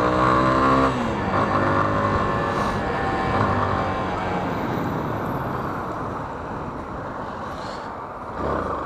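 Yamaha Fazer 250 single-cylinder motorcycle engine accelerating, its pitch rising for about a second before dropping off as the throttle is eased. Wind and road rush follows and slowly fades.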